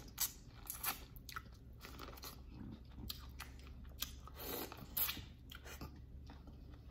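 Close-up biting and chewing of corn on the cob dipped in Alfredo sauce: irregular short clicks and smacks from the mouth, a few a second.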